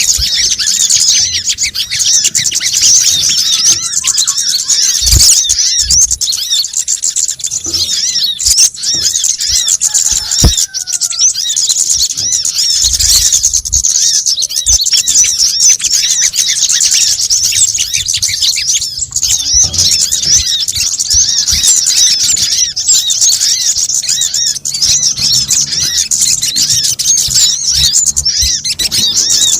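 Dense, rapid high-pitched chirping and twittering of small birds, a looped lure recording of kemade, sogon and brown-throated sunbird calls, with a few brief low thumps.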